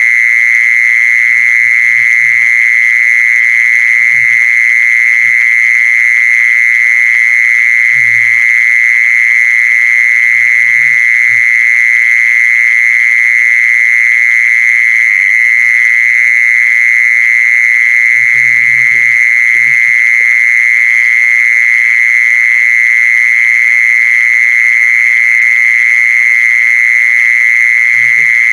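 A loud, unbroken high-pitched buzzing drone, with faint short low notes every couple of seconds beneath it.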